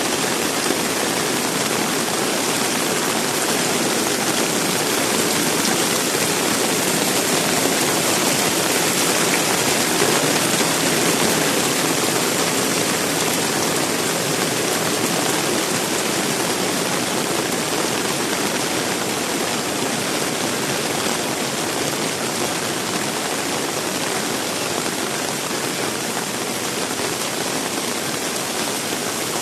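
Heavy rain pouring steadily, a dense even hiss, briefly a little louder about ten seconds in.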